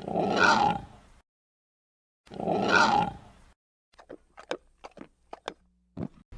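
A large animal roaring twice, each roar about a second long and the two a little over two seconds apart, followed by a quick run of short, sharp clicks.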